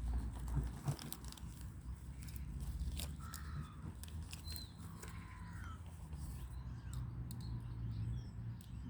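Birds calling a few times around the middle: short, gliding, crow-like calls over a steady low rumble, with a few sharp clicks.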